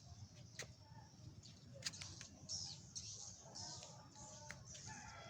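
Faint birds chirping, short high calls that fall in pitch, with a few sharp clicks in between.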